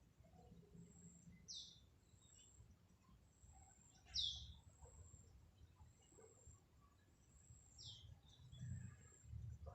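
Faint bird calls: three short, high chirps, each sliding down in pitch, spaced a few seconds apart, the middle one the loudest, over a low rumble.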